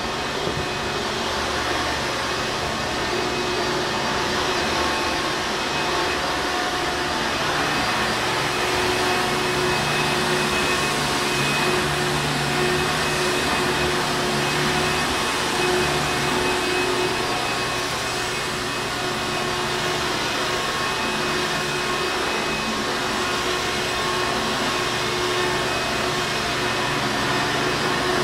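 Hoover Encore Supreme vacuum cleaner running continuously, a steady motor whine and airflow rush with a constant hum, its level unchanging.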